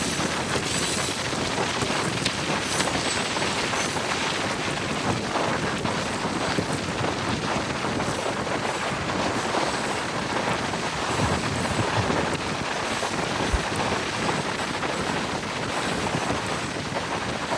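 Steady rushing wind and road noise of a moving car, with no distinct tones or knocks.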